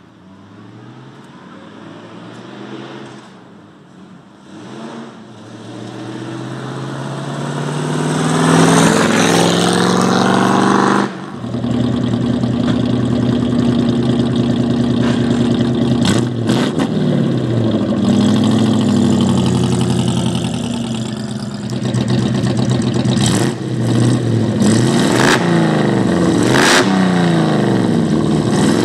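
A 1961 Daimler SP250 Dart's 2.5-litre hemi V8 exhaust note. It grows louder and climbs in pitch over the first several seconds as the car accelerates. It changes abruptly around eleven seconds in, then runs loud for the rest of the time, the pitch rising and falling as the engine revs up and down.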